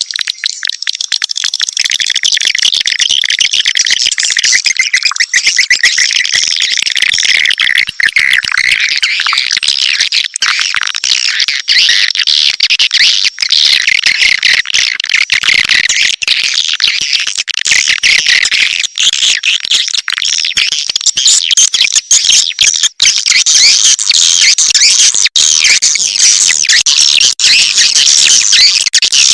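Swiftlet calling-sound recording, the lure track played to attract edible-nest swiftlets: a dense, unbroken mass of rapid high-pitched twittering chirps.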